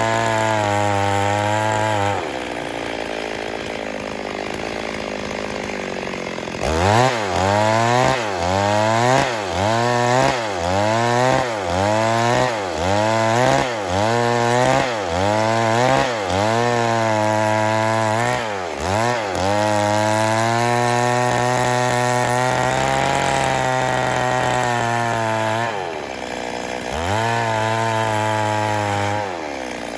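Stihl MS 382 two-stroke chainsaw running at high revs. About two seconds in it drops to a low speed, then it is revved up and down in quick bursts about once a second. It is then held at steady high revs, with a short dip and a drop near the end.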